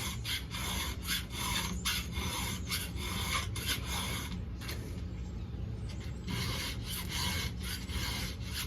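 Round file being stroked by hand across the cutters of a 3/8 full-comp chainsaw chain, sharpening them: a run of short rasping strokes, about two to three a second.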